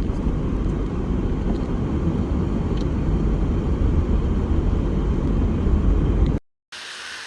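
A steady low rumble that cuts off suddenly about six seconds in, followed by a much quieter, even hiss.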